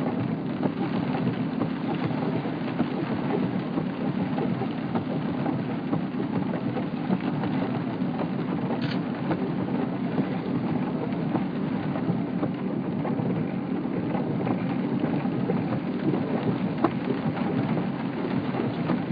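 Steady rain, a dense patter of drops hitting a surface.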